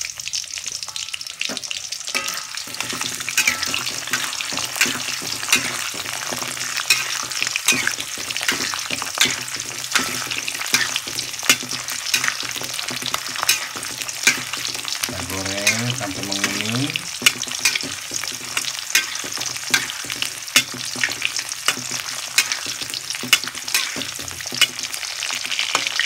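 Garlic cloves deep-frying in hot oil in a wok: a steady sizzle dotted with sharp clicks as a spatula stirs and scrapes against the wok. Just past halfway a brief wavering pitched sound is heard over it.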